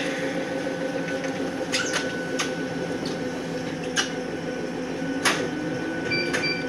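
Electric commuter train standing at a station, its equipment humming steadily, with scattered clicks and knocks and two short beeps near the end.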